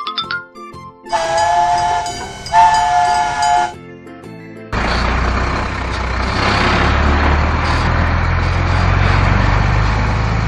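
Cartoon train sound effects: a short rising whistle, then two blasts of a chord-like train whistle, then the steady hissing rumble of a train running.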